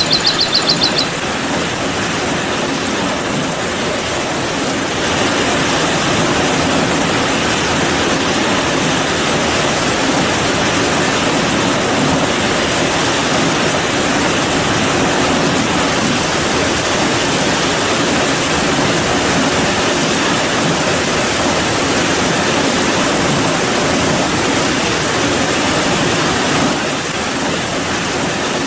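Steady rain, an even hiss of falling water that gets a little louder about five seconds in and eases slightly near the end.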